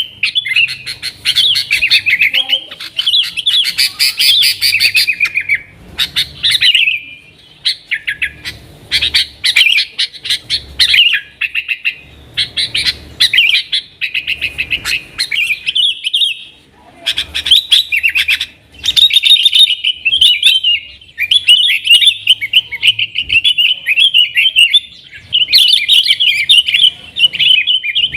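Yellow-vented bulbul (trucukan) singing in long, fast, chattering phrases a few seconds each, with short pauses between them.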